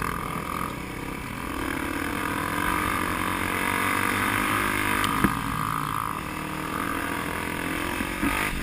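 Enduro dirt bike engine running, its level building over the first few seconds and easing back after about five seconds, with a couple of short sharp knocks around then.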